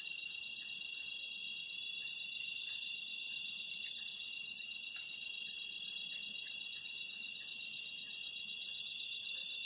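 Dense chorus of night insects in the forest: a steady, high, shrill drone of several pitches at once that runs on without a break.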